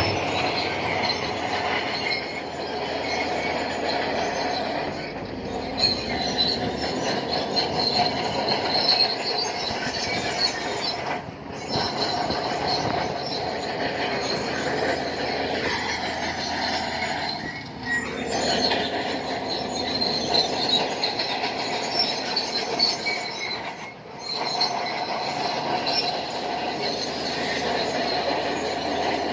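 Shantui crawler bulldozer working, its steel tracks squealing and clanking steadily over the engine. The sound dips out briefly twice, about a third of the way in and again near the end.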